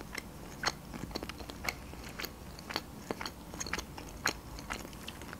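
Close-miked chewing of a mouthful of food with the mouth closed: soft, wet mouth clicks and smacks at irregular intervals, a few a second.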